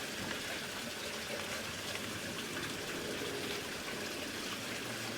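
Water being squirted from a pump bottle into the boiler of a Mamod toy steam traction engine through the safety-valve hole: a steady, even filling sound.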